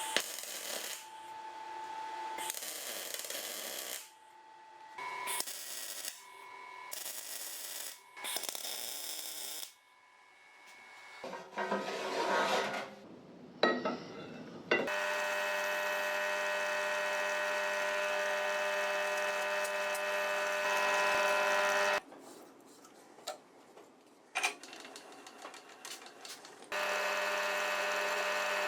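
Workshop power tools running in a string of short clips: steady electric-motor hums of several seconds each, with noisy working passages between them, each stopping abruptly at a cut.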